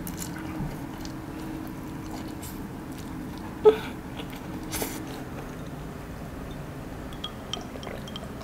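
Close-up mouth sounds of a person chewing spaghetti, with a sharp click about three and a half seconds in and a few light ticks near the end.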